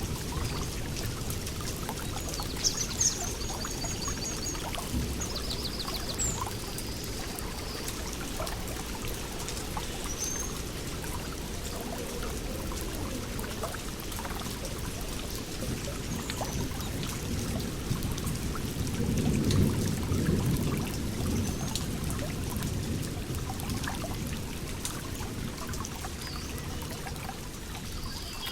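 Water running and trickling steadily, like a small stream, with a brief surge about two-thirds of the way through. Short high bird chirps come a few seconds in and again near the end.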